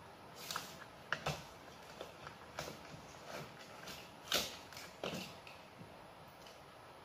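Short PVC pipe pieces and fittings being handled: scattered light knocks, clicks and scrapes of hard plastic, about ten over five seconds, dying away near the end.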